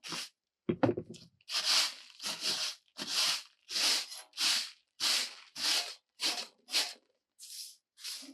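Regular rasping or scraping strokes, about one and a half a second, with one short louder, lower-pitched sound about a second in.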